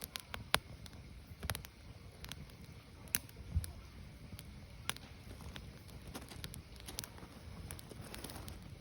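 Burning firewood crackling, with irregular sharp pops, a few louder ones, over a low steady rumble of the fire.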